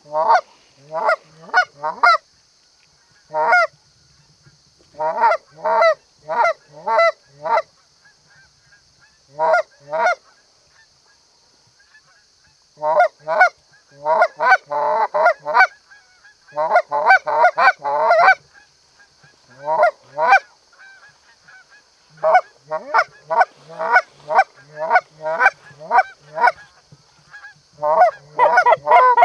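Canada goose honking and clucking: loud, short calls in quick runs of three to six, with pauses between runs. A faint steady high hiss sits underneath.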